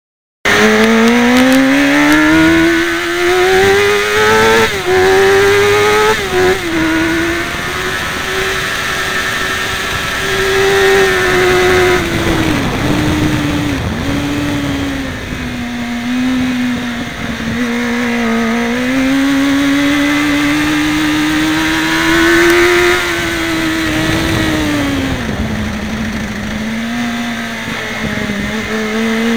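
Sport motorcycle's engine heard from on board while riding: it starts abruptly and revs up hard, dropping in pitch at quick upshifts about 4½ and 6½ seconds in, then holds high revs, eases off around 12 seconds and runs on at lower revs, rising and falling gently with the throttle and picking up again near the end.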